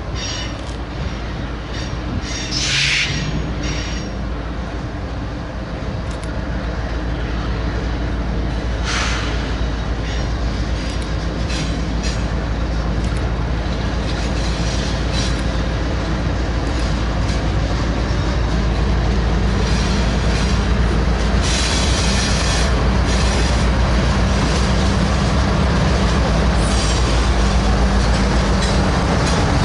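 Union Pacific train rolling past: a steady low rumble that slowly grows louder, with brief high squeals of wheels on the rail a few times.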